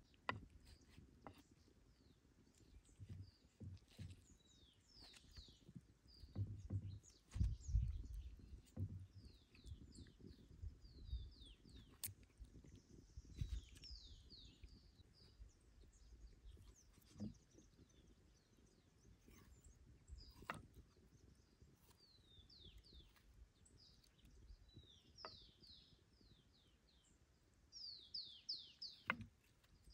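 Small birds calling again and again in quick runs of short, falling high chirps, with a close burst of them near the end. Scattered clicks and a few low thumps, the loudest about seven to eight seconds in.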